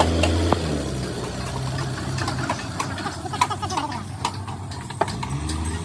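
A vehicle engine idling in a workshop, louder about the first second and again near the end, with scattered metallic knocks and clanks.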